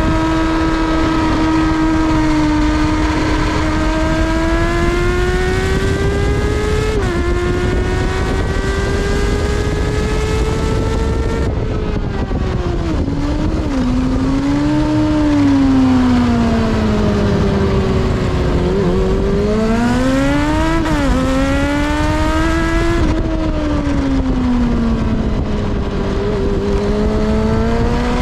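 Kawasaki ZXR400's inline-four engine at high revs on a track lap: the pitch climbs steadily through a gear change, drops sharply about eleven seconds in with short blips as it changes down, then falls and rises again twice as the bike brakes and accelerates.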